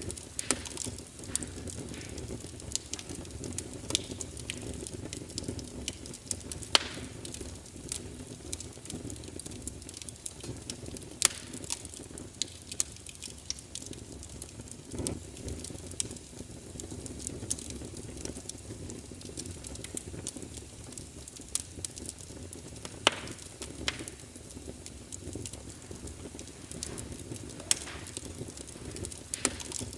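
Wood fire burning in a fireplace: a steady low rumble of flames with frequent sharp crackles, and a few louder pops scattered through.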